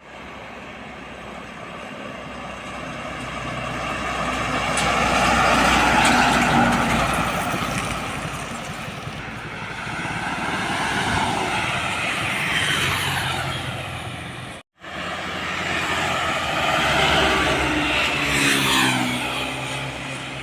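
Heavy trucks driving past on a highway, one after another. Engine and tyre noise swells as each one approaches and then fades, with the engine pitch falling as it goes by. There is a short break in the sound about two-thirds of the way through.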